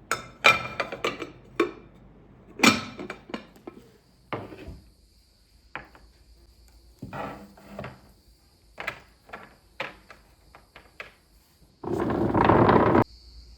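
A series of sharp knocks and clatters, like dishes, utensils and wooden objects being set down and handled, with about a second of loud rushing noise near the end.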